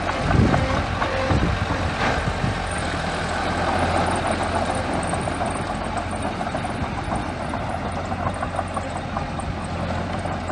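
Small bulldozer's diesel engine running steadily, with a few sharp knocks in the first two seconds.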